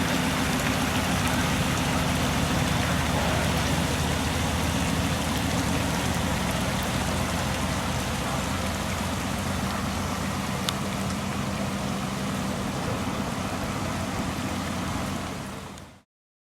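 Heavy rain falling steadily and splashing on surfaces, with a steady low hum underneath. It fades out and cuts off shortly before the end.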